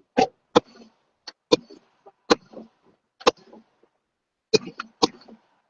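Fireworks going off: an irregular series of about eight sharp bangs and pops, with brief gaps between them.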